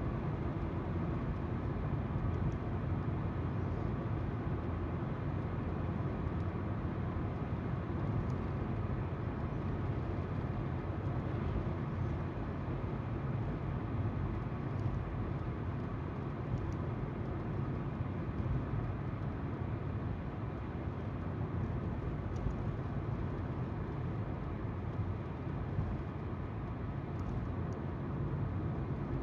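Car driving, heard from inside the cabin by a dashcam: tyres running on the road and the engine's steady hum.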